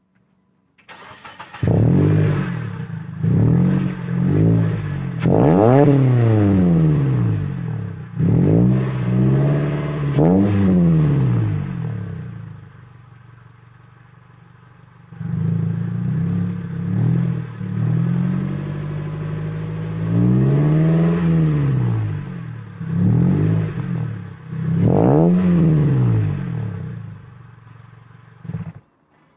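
Mitsubishi Lancer engine through a welded-on exhaust, starting up about a second in and revved repeatedly, the pitch rising and falling with each rev. It drops back to a quieter idle in the middle, then is revved again and shut off near the end.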